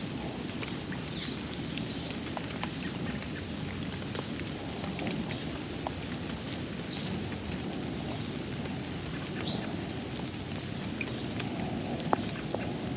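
Steady rain falling on a backyard pond, with many separate drops ticking sharply close by, one louder tick about 12 seconds in. A few short, high bird chirps come through now and then.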